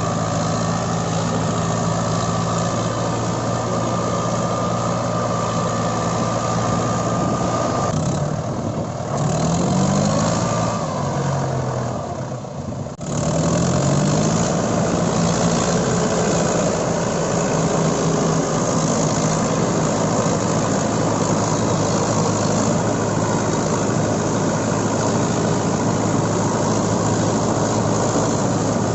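Mahindra 575 DI tractor's four-cylinder diesel engine running steadily, its revs climbing in short rises a few times as it works in mud. Near the middle the sound drops away briefly and comes back suddenly.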